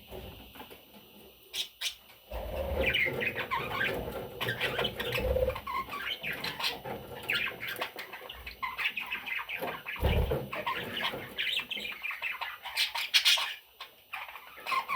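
Budgerigars chirping and chattering busily in short, rapid calls, starting about two seconds in, with a couple of low thumps.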